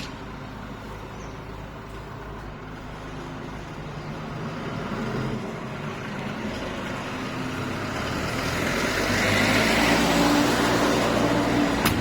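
Four-cylinder diesel tractor engine running, growing louder about two-thirds of the way in.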